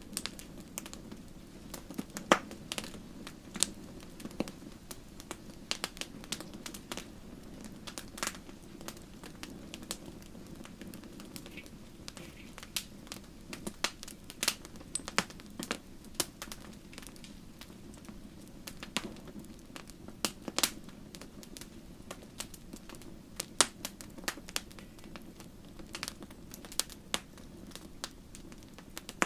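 Wood fire crackling in a fireplace: irregular sharp pops and snaps, a few much louder than the rest, over a low steady rush.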